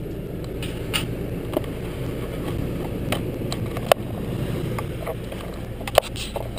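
Steady low wind and road rumble on a GoPro during a bicycle ride, with several sharp clicks or knocks, the loudest about four and six seconds in.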